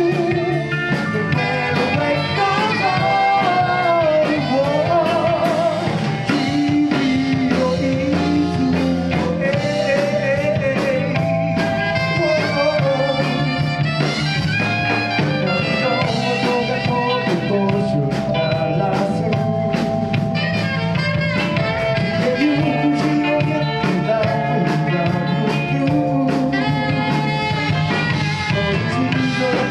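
Live band playing a song, with a singing voice or lead melody over bass and a steady drum beat.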